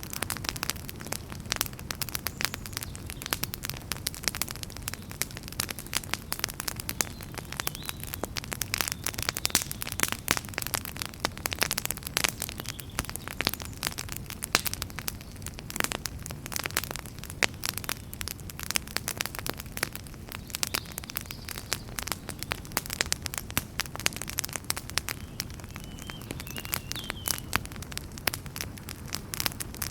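Wood fire in a fireplace crackling, with dense, irregular sharp pops and snaps over a steady low rushing of the flames.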